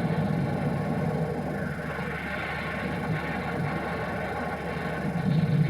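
Steady low rumble with a noisy hiss above it, without distinct bangs.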